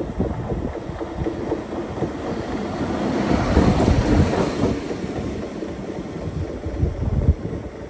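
A train passing on the line, its wheels clattering over the rails; it swells to loudest about halfway through, then fades.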